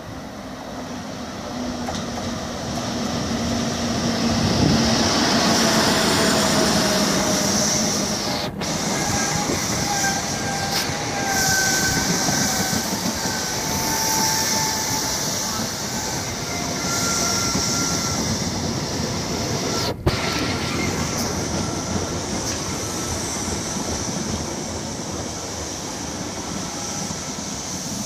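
Greater Anglia passenger train of Mk3 coaches running along the platform. A steady rumble and rail noise builds over the first few seconds and then holds, with thin squealing tones from the wheels coming and going.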